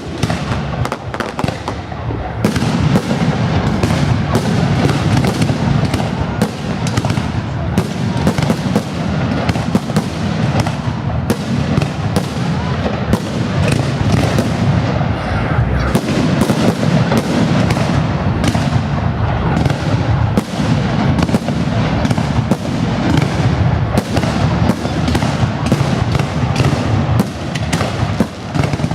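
Fireworks salute: a loud, continuous barrage of shells bursting, many bangs and crackles a second over a low rumble.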